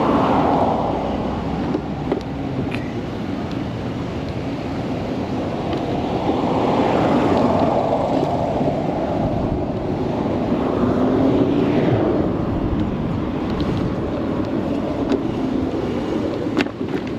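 Wind rushing over the microphone in slow swells that rise and ease every few seconds, over a steady low rumble.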